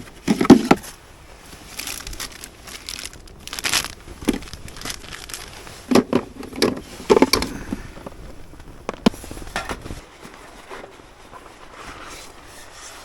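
Irregular rustling, crinkling and a few sharp knocks of things being handled. Underneath is a low rumble that drops away about ten seconds in.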